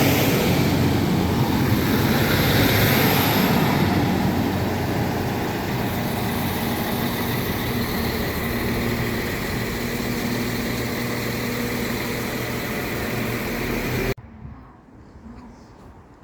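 A train running through at close range: a loud, steady rush of wheel and engine noise with faint engine tones, loudest in the first few seconds and easing after. It cuts off abruptly near the end.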